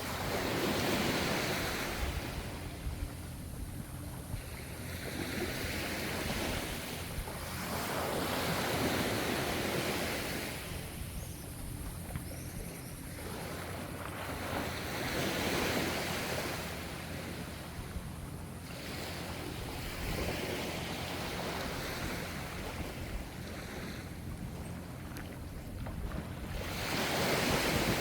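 Gentle ocean waves washing in and receding, a steady rush of surf that swells and fades every few seconds.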